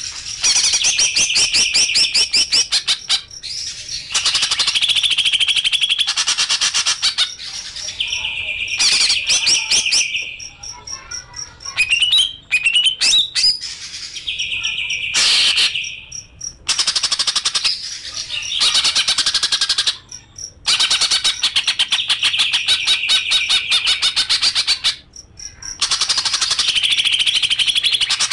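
A songbird singing a 'master' song: long, very fast trilling and chattering phrases, each a few seconds long, with short pauses between them and a run of sharp separate notes about midway.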